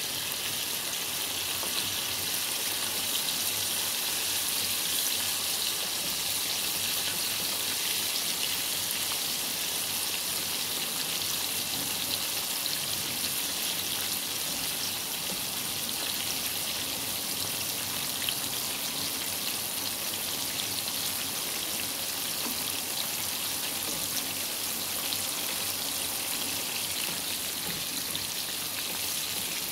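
Breaded chicken tenders frying in hot oil in a pan, a steady crackling sizzle with fine pops throughout.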